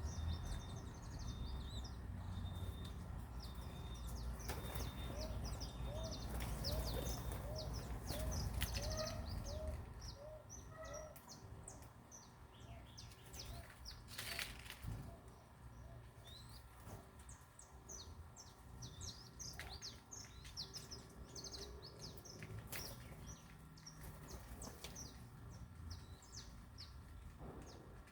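Many small birds chirping and twittering in quick, high notes, with a run of about ten short, lower repeated notes between about 6 and 10 seconds in. There is a low rumble under the first third.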